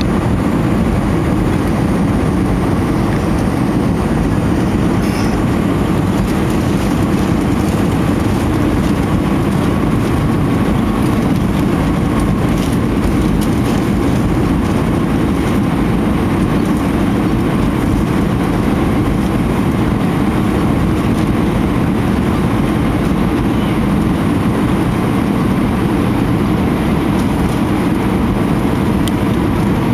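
Steady cabin roar of an Airbus A319-114 in flight, heard from a window seat: engine and rushing-air noise, deep and even, with no change in level.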